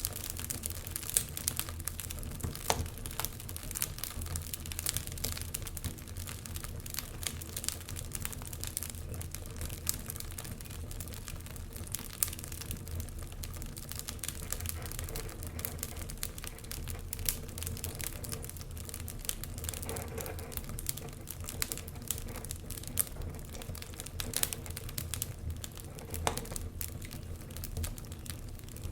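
Wood fire crackling in a fireplace: dense, irregular small cracks and pops over a steady low rumble.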